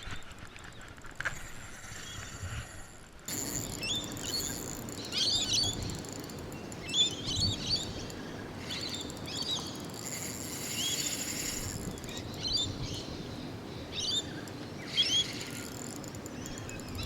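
Birds chirping in clusters of short, quick calls over a steady outdoor background hiss, starting after a sudden change in the sound about three seconds in.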